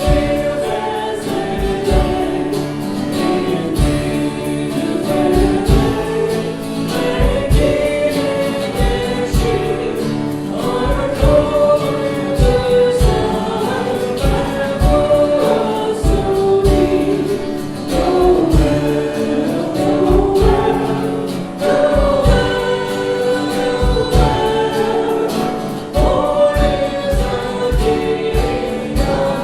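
Worship song sung by a group of voices with instrumental accompaniment and a steady low beat.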